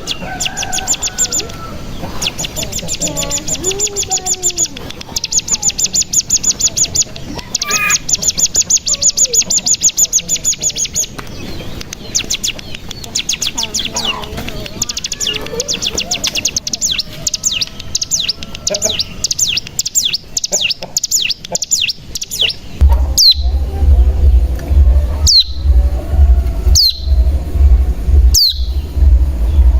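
Ciblek gunung song: long, fast buzzing trills ('ngebren') for about the first half, then looser chirping. From about two-thirds in comes a series of separate downward-sweeping call notes roughly a second and a half apart, over a low hum.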